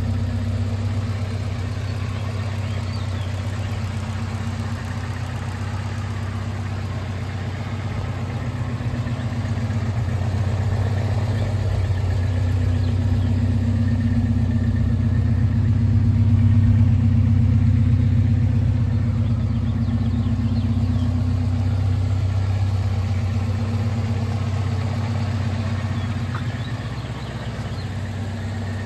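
1987 Alfa Romeo Spider Graduate's twin-cam four-cylinder engine idling steadily just after a cold start. It runs absolutely smooth through an exhaust with the rear muffler deleted (the 'stinger'). It swells slightly louder about halfway through.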